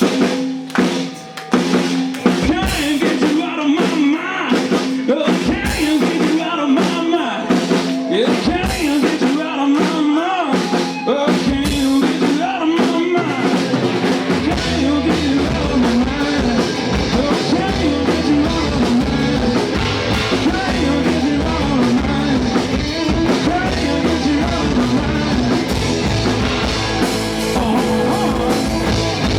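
Live rock-blues band playing loud, with a drum kit driving it and wavering guitar-like lines over the top. Heavier bass comes in about halfway through and fills out the sound.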